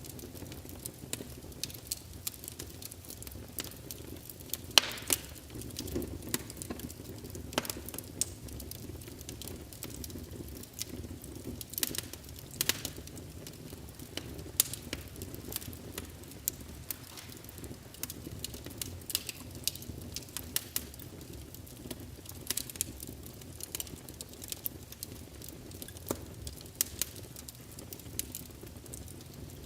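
Wood fire crackling in a fireplace: a steady low rumble of flame with irregular sharp pops and snaps, a few louder ones.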